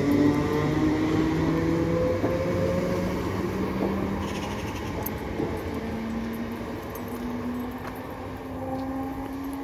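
ScotRail electric multiple-unit train pulling away and accelerating. Its motors whine in tones that rise in pitch over the rumble of the wheels, and the sound fades steadily as the train draws away.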